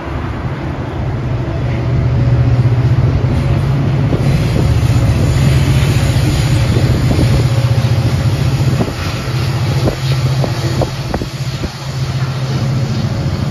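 Double-decker passenger train running past alongside busy highway traffic: a steady low drone, with a run of sharp clacks in the second half, and wind buffeting the microphone.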